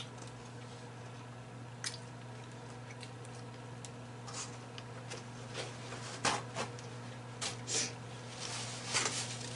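Close mouth sounds of someone eating seafood boil: wet chewing and lip smacks, sparse at first and coming thick and fast in the second half, over a steady low hum.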